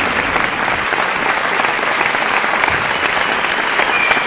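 Applause from a large crowd: many people clapping at once in a dense, steady patter.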